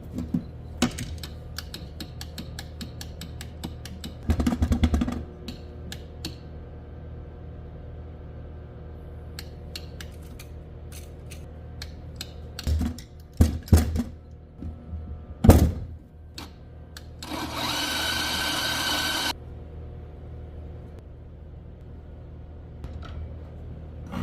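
Espresso grinder jamming: a steady motor hum runs under repeated clicks and knocks. About four seconds in there is a loud rattling burst, and later a two-second stretch of loud grinding noise that cuts off sharply.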